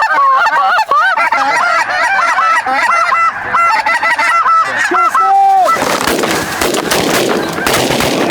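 Dense, overlapping honking and calling of a large flock of geese (lesser Canada and snow geese) for about five and a half seconds, ending in one longer held note. Then it gives way to a loud noisy stretch with several sharp cracks.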